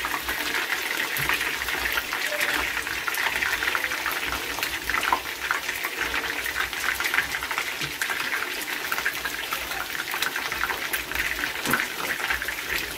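Flour-coated chicken drumsticks frying in hot oil in a pan: a steady sizzle with many small crackles and pops.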